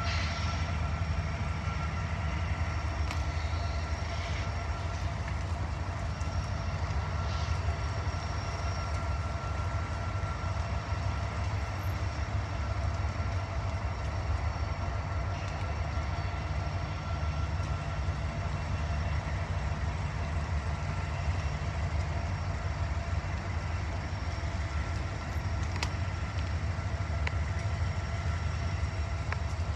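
Freight train's diesel locomotives running with a steady low rumble as the train backs slowly into the rail yard, with faint steady high-pitched tones above the rumble.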